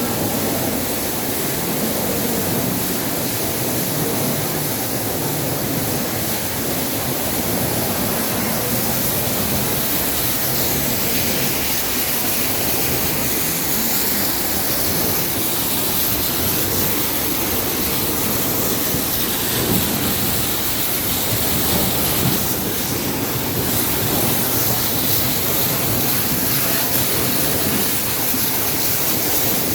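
Ginger washing machine running steadily, a continuous rushing noise of the machine and its washing water with no breaks.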